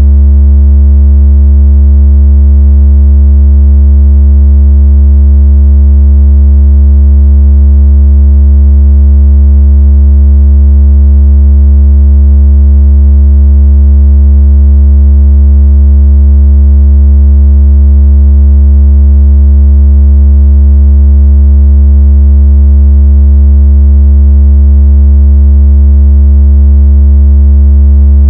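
A loud, deep, steady electronic tone held without change, with faint overtones above it. It is a synthetic bass vibration tone used to shake water out of a phone speaker.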